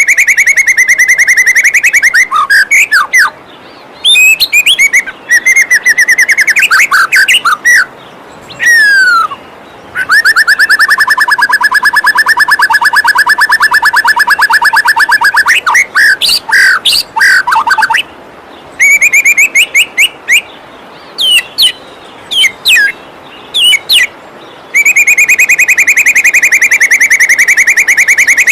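Songbird song for training white-rumped shamas: loud, very rapid trills and rattling churrs, with a few quick sweeping notes between them. A steady soft rush of falling water runs underneath and is heard in the gaps between phrases.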